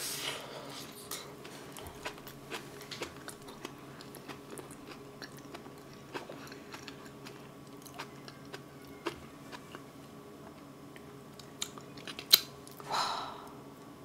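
Close-miked chewing of a mouthful of soft boiled potato with braised kimchi: a bite at the start, then small wet mouth clicks and smacks throughout. Near the end come a sharp click and a short breathy puff.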